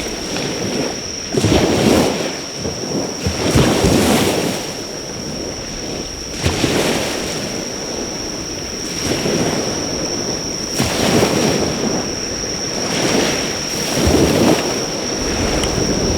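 Waves breaking on the shore in slow repeated surges, with a loud, steady high-pitched insect call held over them throughout. There is one sharp snap about six and a half seconds in.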